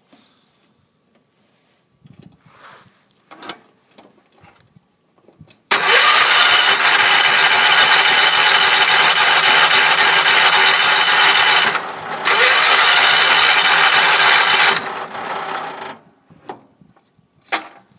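Wheel Horse C-105 lawn tractor's engine cranked by its starter in deep cold for about nine seconds, with a short break partway through, without catching. It is a cold start in sub-zero weather that won't fire. A few light clicks come before and after.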